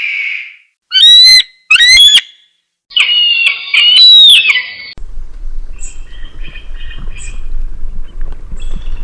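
Eagle calls: two short, loud, rising screeches about a second apart, then a longer wavering call. About halfway through, softer repeated chirping calls take over against a low background rumble.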